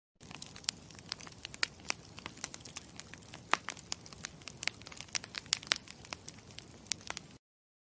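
Campfire crackling: irregular sharp pops and snaps over a low steady rumble, cutting out abruptly near the end.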